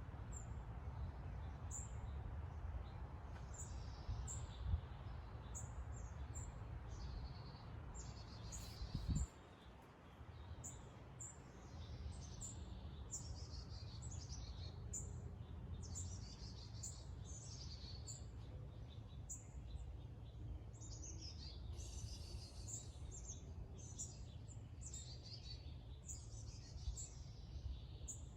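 Small birds chirping and singing throughout: many short, high, falling notes repeated over a steady low rumble. A brief knock comes about nine seconds in, the loudest moment.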